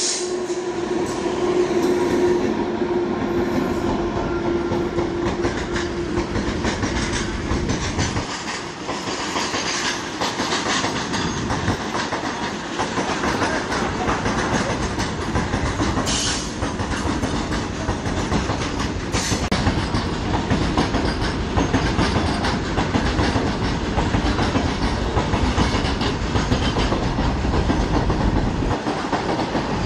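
Electric-hauled goods train of covered wagons running past close by, its wheels rumbling and clattering over the rail joints in a continuous clickety-clack. A steady hum sounds during the first few seconds and then fades.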